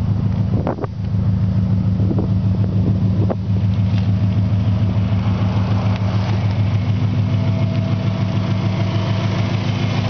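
Subaru EJ20G turbocharged flat-four idling steadily through an aftermarket 3-inch exhaust, with an even low hum. A few brief light knocks sound in the first few seconds.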